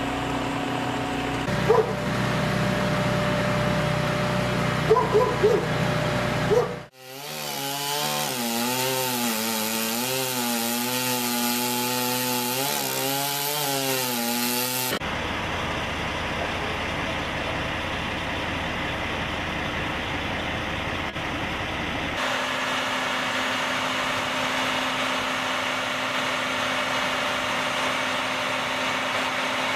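Powered saws cutting wood, in several clips joined with abrupt cuts. In one of them, between about 7 and 15 seconds, a saw motor's pitch wavers up and down under load; the others are a steadier machine running through wood.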